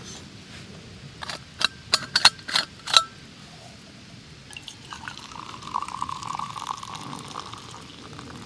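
About six sharp clinks of camp cookware knocking together, some ringing briefly, then liquid being poured for a couple of seconds.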